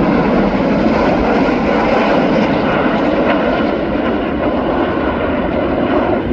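Jet aircraft flying over, a loud steady rush of engine noise that eases slightly in the second half.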